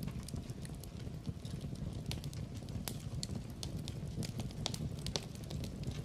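Wood fire crackling in a fireplace: frequent sharp, irregular pops and snaps over a steady low rumble of the burning logs.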